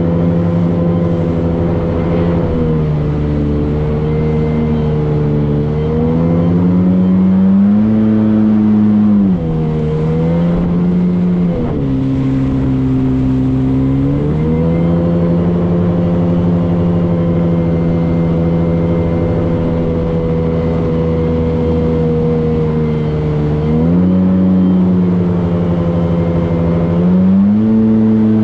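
Motorboat engine running under way, its pitch rising and falling several times as the throttle is opened and eased off.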